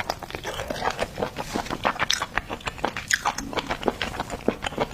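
Close-miked chewing and biting of spicy octopus: a fast, uneven run of sharp clicks and crunches.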